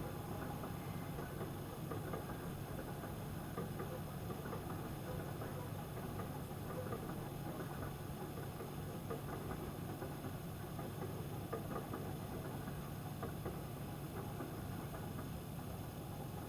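Freight train running past on the track: a steady low rumble with a dense, even crackle over it.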